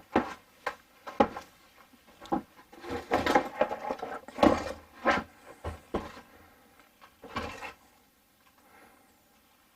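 Hands handling plumbing parts and tools at close range: a run of irregular knocks, clunks and rustles that stops near the end.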